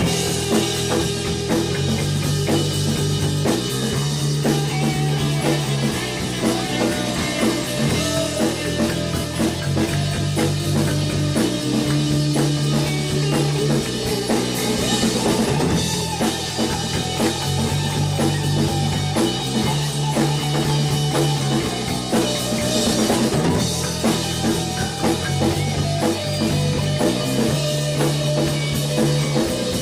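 Rock band playing live: drum kit, electric bass holding low notes that change every second or two, and guitar.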